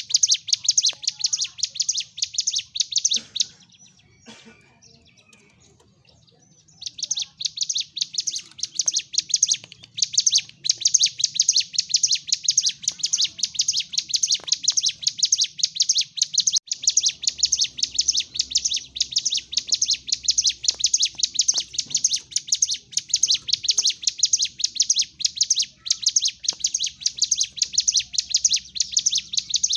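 Ciblek gunung singing in a fast, rapid-fire chatter of high notes, in fighting-mood song; it breaks off about three seconds in, resumes a few seconds later and runs on without a pause.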